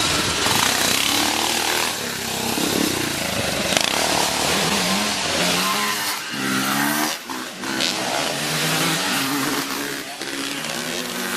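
Several classic twinshock motocross motorcycles revving hard on the track, their engine notes repeatedly rising and falling and overlapping as they accelerate and pass.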